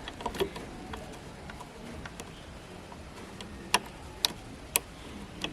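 Scattered light clicks and taps, then three sharp clicks about half a second apart in the second half.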